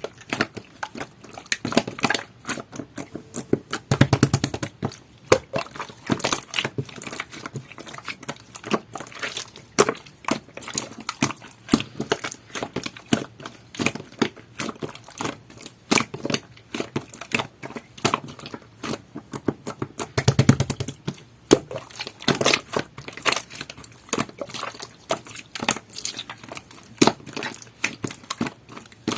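Jelly-textured slime being squished and pressed by hand, giving a steady stream of sticky clicks and small pops. Two heavier, fuller squelches come about four seconds in and again about two-thirds of the way through.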